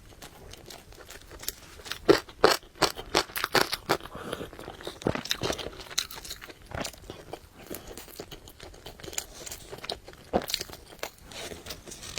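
Close-miked eating: crunchy bites and wet chewing, with a run of sharp crunches about two to four seconds in and another loud crunch near the end.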